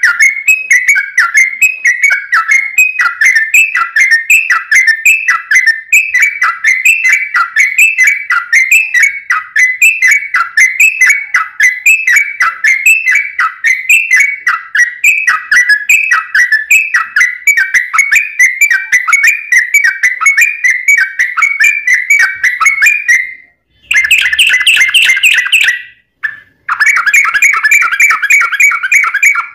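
Sooty-headed bulbul (trucuk) singing a fast, dense run of short chattering whistled notes with no pauses between phrases. The song briefly cuts out twice near the end.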